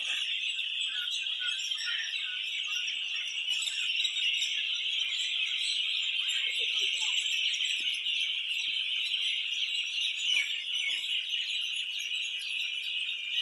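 Birds chirping in a dense, steady high-pitched chorus, with scattered higher chirps over it.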